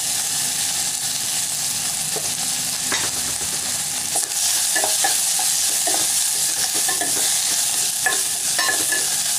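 Chopped onion, green chilli and curry leaves sizzling in hot oil in a pan as they are sautéed and stirred, the stirring utensil knocking and scraping against the pan now and then.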